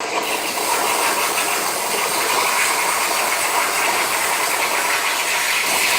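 CNC plasma cutter's torch arc cutting steel plate: a loud, steady hiss that cuts off abruptly at the end.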